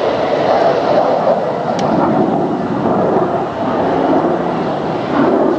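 Loud, steady roar of an F-22 Raptor's twin Pratt & Whitney F119 turbofan engines as the jet maneuvers.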